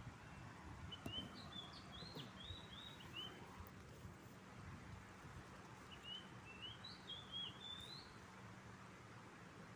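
A small bird singing faintly: a quick phrase of short, up-slurred chirps from about one to three seconds in, and another from about six to eight seconds in, over a faint steady background hiss.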